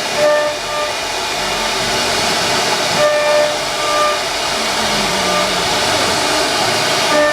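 Wood CNC router running, its spindle cutting with a steady rushing noise and a whine that comes and goes, clearest just after the start and again about three seconds in.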